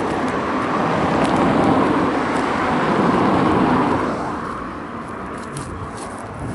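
A car passing on the road: its tyre and engine noise holds loud, then fades away about four seconds in.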